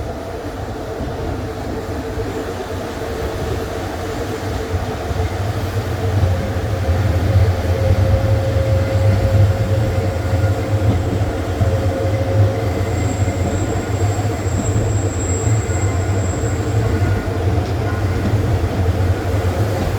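Passenger train running, heard from on board: a steady low rumble of the wheels on the rails that grows louder about six seconds in. A faint high wheel squeal sounds for a few seconds in the middle as the train rounds the tight curve of a spiral loop.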